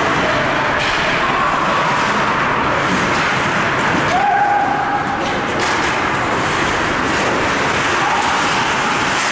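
Steady wash of ice hockey game noise: crowd and play sounds in a rink, with a voice calling out about four seconds in.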